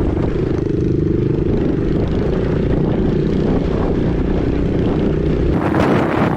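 Dirt bike engine running at a steady speed while riding, with wind buffeting the unprotected microphone. Near the end the engine tone gives way abruptly to a hissier rush of wind.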